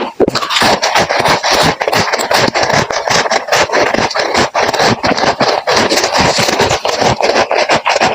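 Close-miked chewing of crunchy freezer frost: dense, rapid crunching that goes on without a break.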